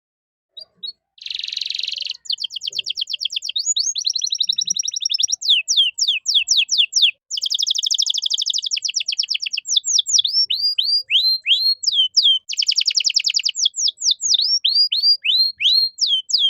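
Domestic canary singing a long, varied song: dense rapid rolls and trills, then a run of quick whistled notes that sweep downward, repeated about two a second. A short break falls about halfway through.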